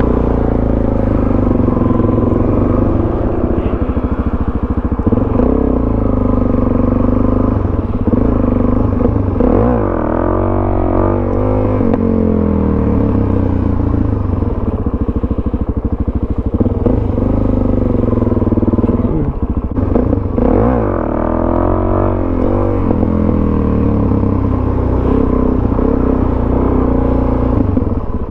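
Suzuki DRZ400 supermoto's single-cylinder four-stroke engine running hard under the rider. It revs up and falls back with the throttle, most clearly about ten seconds in and again about twenty seconds in, as he pulls wheelies.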